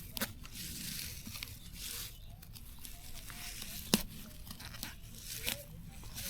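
Leafy plant stems tearing and rustling, with scattered snaps and one sharp snap about four seconds in.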